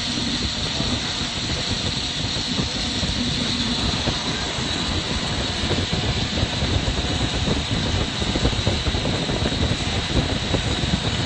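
Lampworking torch flame burning steadily: a constant hiss with an uneven low rumble under it.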